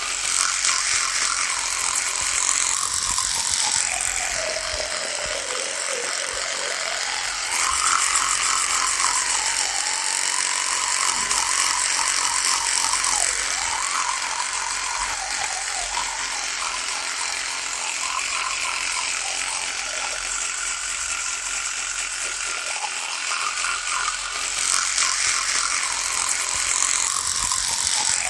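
Electric toothbrush running with a continuous rattling buzz. Its whine sinks in pitch over the first few seconds, climbs back and wavers, then sinks again near the end.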